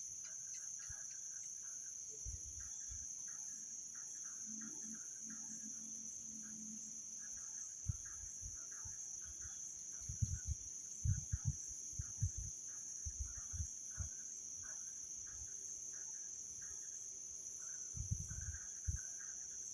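Steady high-pitched insect drone with scattered short chirps, broken by low dull thumps about halfway through and again near the end.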